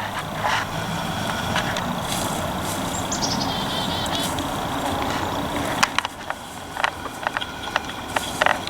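A passing vehicle's engine and road noise, swelling and then falling away about six seconds in. A bird gives a quick descending run of high notes about three seconds in, and scattered short clicks follow near the end.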